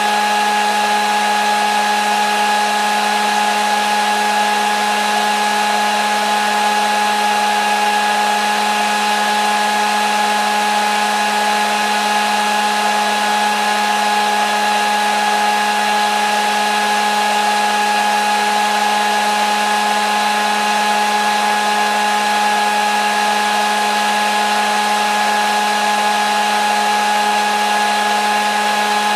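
Hair dryer running steadily: a constant rush of blown air over an even motor hum and whine, with no change in speed.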